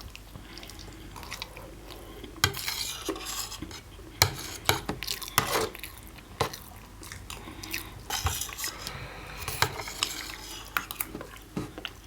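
Spoons or other utensils clinking and scraping against plates and bowls as food is eaten, in irregular sharp clinks and short scrapes.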